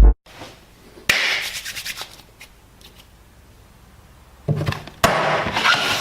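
Rough scraping and rubbing noises: a sudden loud scrape about a second in that fades away, then louder scraping again near the end.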